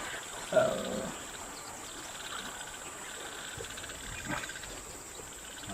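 Steady high-pitched insect chirring, with one short louder sound about half a second in.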